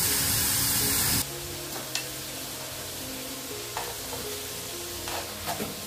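Food frying in hot oil, a loud sizzle for about the first second that cuts off suddenly. Background music follows, with a few faint clicks.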